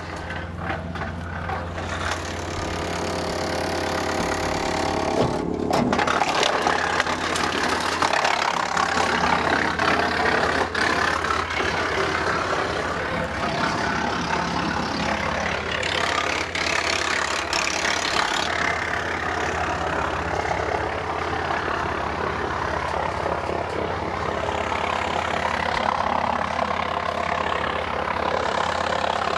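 Tractor-driven wood chipper running, with a steady low engine hum. From about six seconds in, the rough, continuous noise of dry cedar branches being fed in and chipped joins it.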